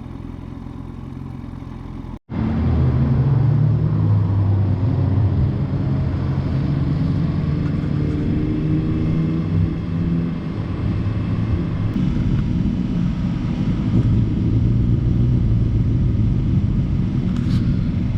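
2008 Yamaha FZ1 Fazer's inline-four engine, a YZF-R1-derived five-valve unit breathing through a Beams slip-on muffler, running at a low, fairly steady pitch with slight rises and falls. A quieter rumble gives way to a sudden break about two seconds in, after which the engine is louder.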